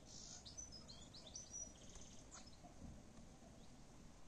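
Near silence with faint outdoor ambience; a small songbird gives a quick run of short high chirps in the first two seconds or so, then a single faint click.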